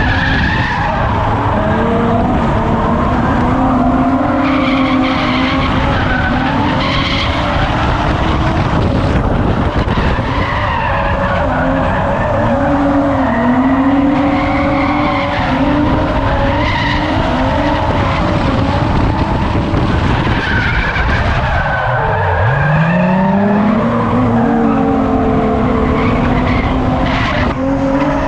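Drift car engine held high in the revs, rising and falling as the throttle is worked, over tyres skidding. About 22 seconds in the revs drop sharply and then climb back up.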